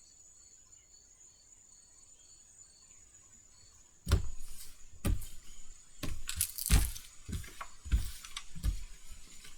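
A faint, regular high chirping, like a cricket, at first. From about four seconds in comes a run of sharp knocks and clicks, seven or eight in all, as a tarot deck is shuffled and tapped against a table.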